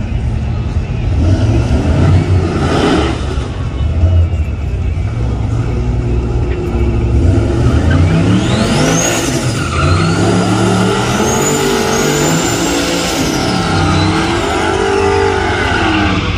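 High-performance vehicle engine rumbling low, then revving hard from about six seconds in, its pitch climbing and dropping again and again as it accelerates. A high whine rises with it, holds, and falls away near the end.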